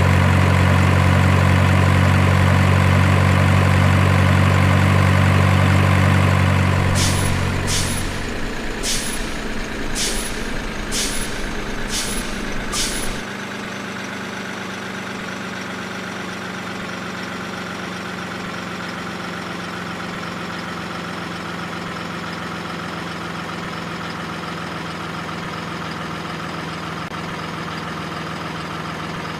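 Heavy truck engine sound running loud and steady, then dropping to a quieter steady running level after about eight seconds. Around the drop, seven short sharp hisses or clicks come about a second apart.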